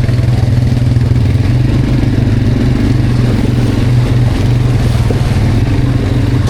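Quad bike (ATV) engine running steadily under load while being ridden.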